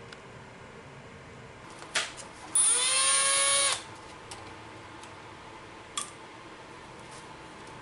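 A small electric power tool, such as a cordless ratchet or drill, runs once for about a second, its whine rising in pitch as it spins up and then holding steady. A click comes just before it and another about two seconds after it.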